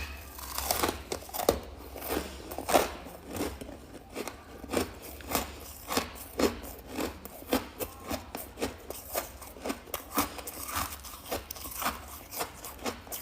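Chunks of freezer frost crunching as they are bitten and chewed: sharp, crisp crunches at about two a second.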